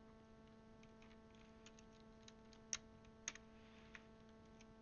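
A few faint, scattered plastic clicks of keycaps being handled and pressed onto a mechanical keyboard's switches, the two loudest about half a second apart near the middle, over a steady low electrical hum.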